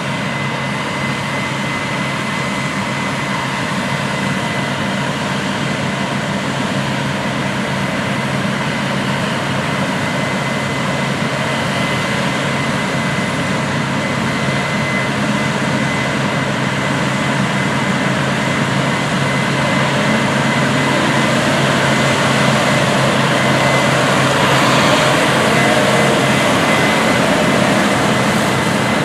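Heavy harvest machinery running: a steady diesel engine drone with a constant high-pitched whine, growing slowly louder.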